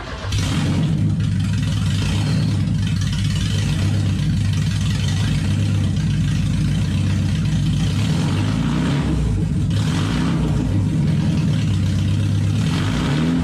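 1984 Porsche 944's 2.5-litre inline-four engine running with its exhaust system removed, loud and unmuffled straight from the header. It holds a steady, even note.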